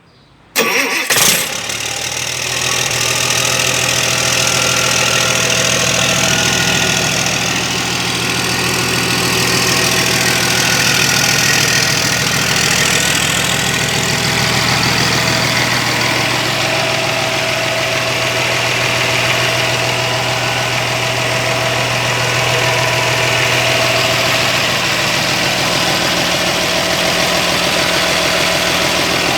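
Caterpillar 3176C inline-six diesel engine starting on the starter and catching almost at once about half a second in, flaring briefly, then running at a steady idle.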